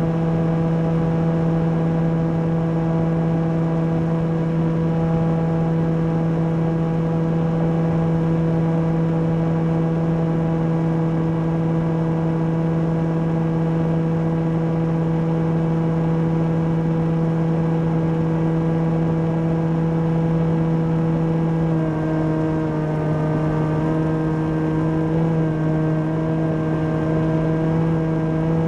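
Electric motor and propeller of a Volantex Ranger EX RC plane, heard from the onboard camera: a steady whine over a noisy rush. About two-thirds of the way through, the pitch drops slightly and wavers, then rises back near the end as the throttle changes.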